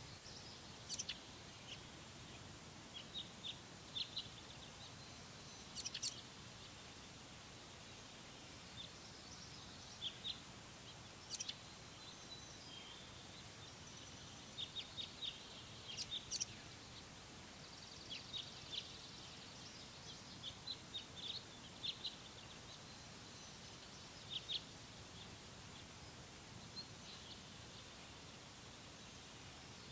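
Small birds chirping: short high calls in scattered groups, with a few thin whistled notes, over a steady faint hiss of outdoor background noise.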